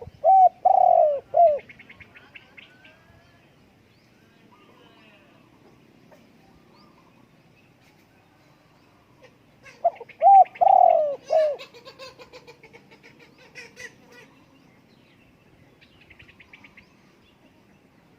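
Spotted dove cooing: two phrases of about four short coo notes, one at the start and another about ten seconds later. Small birds chirp faintly in between.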